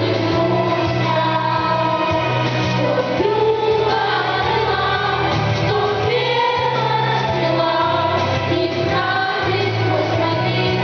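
A choir singing a song over instrumental backing with steady sustained bass notes.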